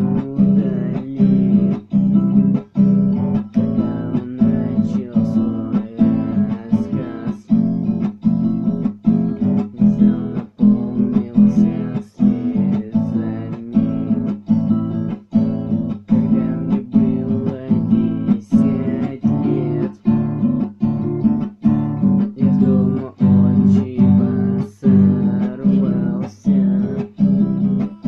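Acoustic guitar strummed in a steady rhythm, with chords that change as it goes: a solo instrumental passage of a song accompaniment.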